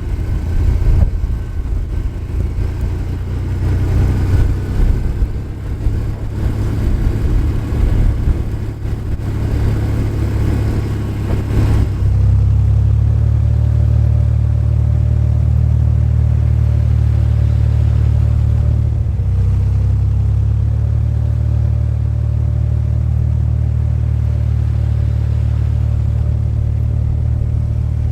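Truck driving through deep snow: a rough, uneven rumble for about twelve seconds, then a sudden change to a steady low engine drone.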